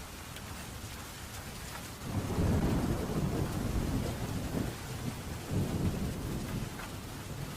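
Steady rain with a roll of thunder that breaks in about two seconds in and rumbles on in several low swells, fading near the end.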